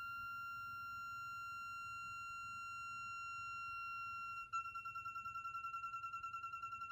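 Rancilio espresso machine humming at start-up: a steady high-pitched tone that about four and a half seconds in turns into a fast pulsing hum, roughly seven beats a second. Coffee-gear support suspects air bubbles in the machine trying to escape.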